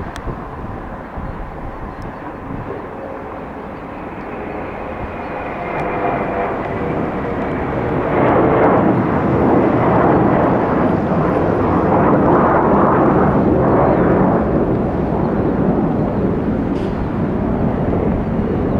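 Boeing 717-200 jet taking off, its two rear-mounted Rolls-Royce BR715 turbofans at takeoff power. The noise builds over several seconds to its loudest about eight seconds in and stays loud as the jet passes and climbs out.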